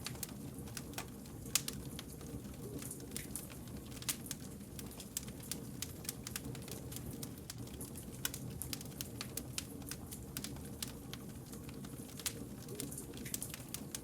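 Wood fire burning, with irregular sharp crackles and pops over a low steady rumble of flames.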